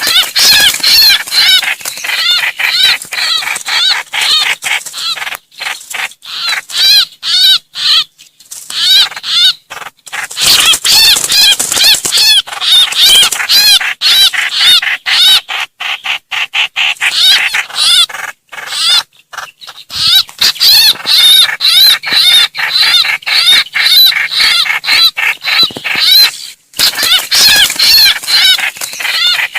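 Trao trảo bird giving its distress call: fast, harsh chattering runs of repeated chirping notes, strung almost without a break, with only a few short pauses. This is the cry a bird in trouble uses to call its flock, which is why it is played to lure birds in.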